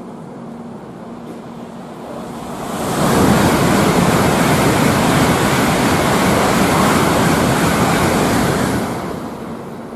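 A Tokaido Shinkansen bullet train passing through the station at high speed: a rushing noise that swells about three seconds in, stays loud for about six seconds, then dies away near the end.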